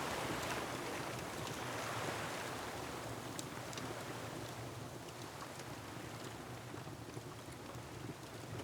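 Ocean surf washing in and slowly easing off, with scattered small pops of a crackling wood fire.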